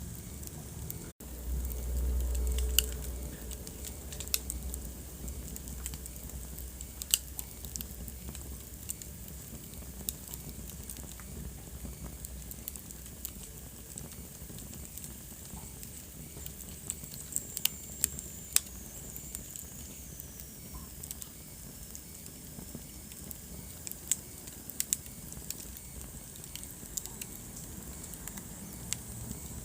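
Wood fire burning in a fireplace: a steady low rumble with scattered sharp crackles and pops. There is a brief louder low whoosh about two seconds in.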